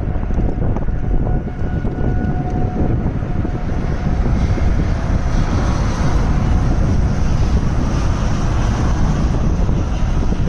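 Storm wind from a tornado blowing hard across the microphone: a loud, steady rush, heaviest in the low end, with constant buffeting.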